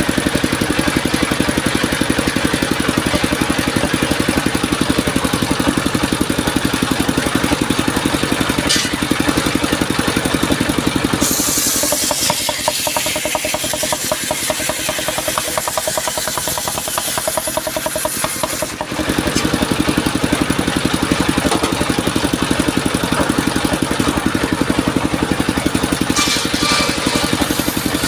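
Engine of a homemade circular-saw sawmill running steadily with a fast, even beat. About eleven seconds in the sound changes for roughly eight seconds: the low running drops back and a hiss comes in, then the steady running returns.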